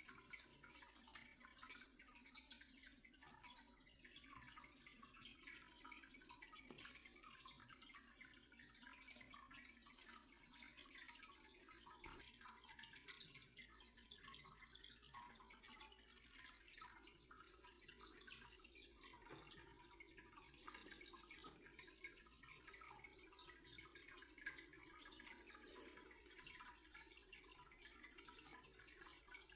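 Near silence: faint room tone with scattered soft ticks and one slightly louder tick near the end.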